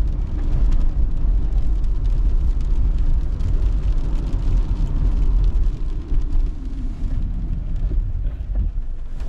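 Road and engine noise inside the cabin of a moving 2016 Subaru Forester: a steady low rumble that eases a little about six seconds in.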